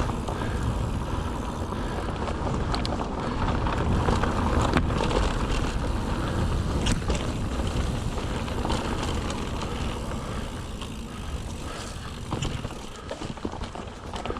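Mountain bike rolling along a dirt track: steady tyre rumble and wind on the microphone, with occasional sharp clicks and rattles from the bike.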